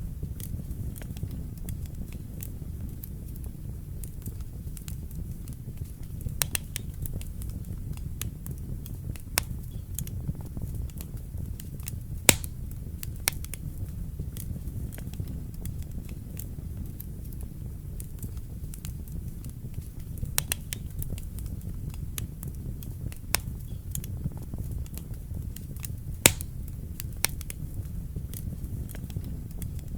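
Fire burning in a fireplace: a steady low rumble of flame with scattered sharp crackles and pops, the two loudest about twelve and twenty-six seconds in.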